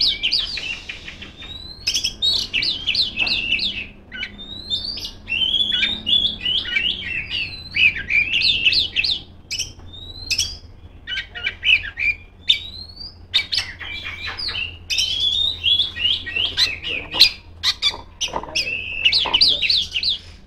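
Oriental magpie-robin (kacer) singing loudly: a rapid, varied run of whistles, trills and sharp chips, broken by short pauses.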